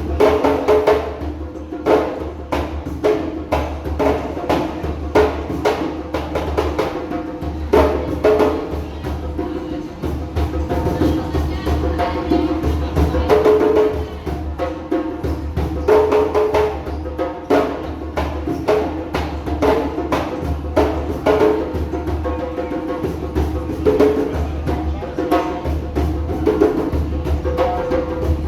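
Several djembe hand drums played together in a fast, steady rhythm of sharp slaps and deep bass tones.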